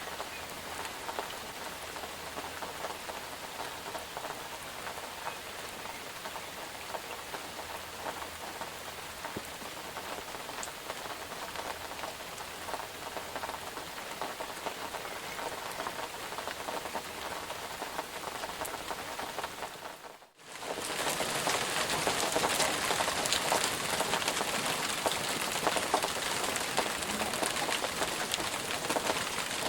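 Steady rain falling, a dense even hiss of many small drop hits. About two-thirds of the way in it dips away for a moment and returns louder and brighter, as a different stretch of rain recording.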